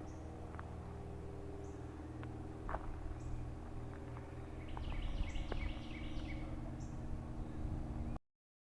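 Steady low hum of a car running, with scattered light clicks and a brief burst of high chirping about five seconds in; the sound cuts off abruptly near the end.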